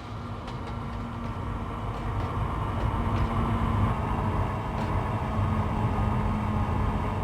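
Railway locomotive running along the track, a steady rumble that grows louder.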